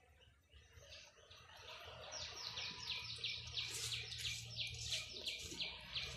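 A bird calling in a fast, even run of short falling chirps, about five a second, growing louder about two seconds in.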